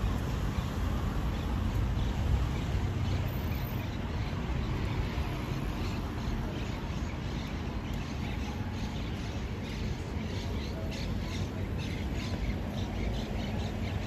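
Outdoor ambience of birds squawking and chirping over a steady low rumble. The calls come more often in the second half.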